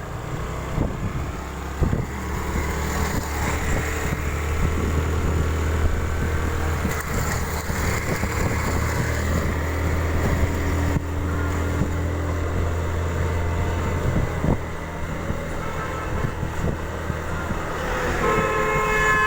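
Motorcycle riding on the road, a steady low drone with scattered knocks. A vehicle horn sounds for about a second near the end.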